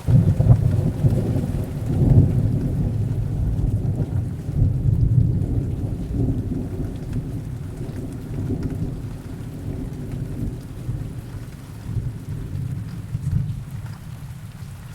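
A long roll of thunder breaks in suddenly, swells again about two seconds in, then rumbles away slowly, over steady heavy rain.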